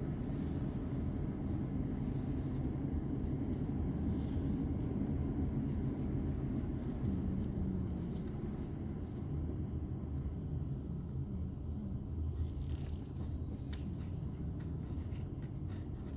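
Steady low rumble of a car driving, engine and road noise, with a few faint ticks.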